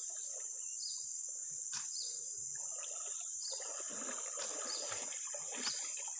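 A steady high-pitched chorus of crickets or similar insects, with faint rustling and a few light clicks or knocks, the clearest about two seconds in and near the end.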